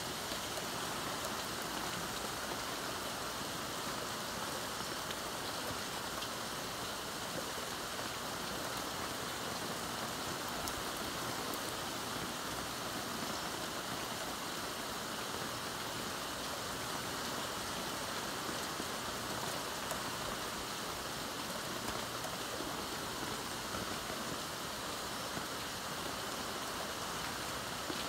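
Heavy rain pouring down in a thunderstorm: a steady, even hiss of rainfall with no thunderclaps.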